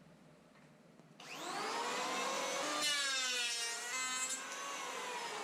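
A power tool's motor spins up about a second in and runs, its pitch wavering in the middle as it cuts into a piece of bird's eye maple.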